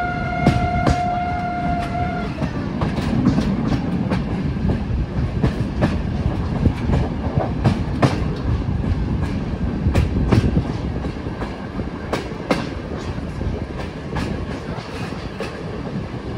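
A train sounds its warning signal as one steady note, which cuts off about two seconds in. Its wheels then rumble and clack irregularly over the rail joints as it rolls through.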